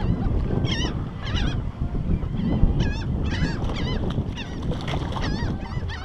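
Birds calling over and over in short, wavy, high chirps over a steady low rumble.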